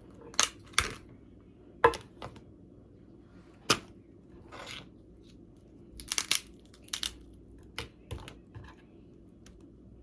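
Cooked blue crab shell being cracked and pulled apart by hand: a series of sharp, irregular cracks and snaps, with a cluster of quick ones about six seconds in.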